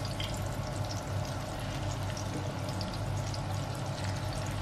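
Tortang ampalaya (bitter gourd and egg patties) frying in shallow oil in a pan: a steady sizzle with scattered small crackles, over a low steady hum.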